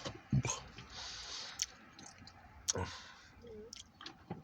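A few scattered, irregular sharp clicks over faint background noise.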